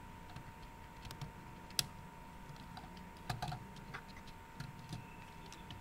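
Plastic toy parts clicking and tapping as a toy playset is handled and its pieces are moved and fitted into place: irregular light clicks, with one sharper snap a little under two seconds in and a short cluster of clicks past the middle.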